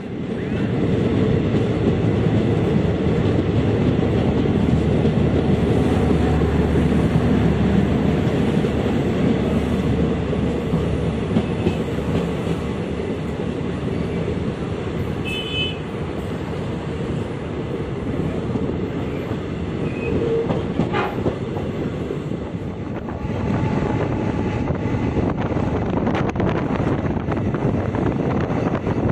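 DEMU (diesel-electric multiple unit) train running at speed, heard from beside an open door of a coach: a steady, loud rumble and clatter of wheels on the track. A brief high tone sounds about halfway through.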